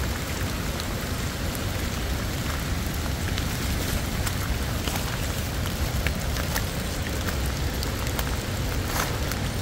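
Steady rain falling, with single drops ticking sharply close by and one louder tick near the end.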